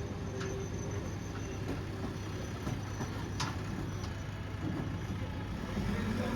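Steady low hum of a vehicle engine running, with a sharp click about three and a half seconds in.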